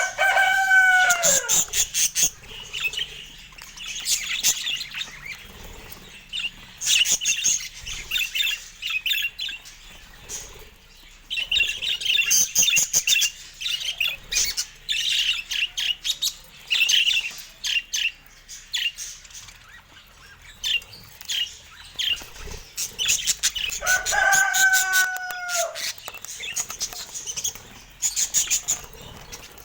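Budgerigars chirping and warbling in a busy chatter, with a longer, lower call that falls in pitch heard twice, near the start and about 24 seconds in.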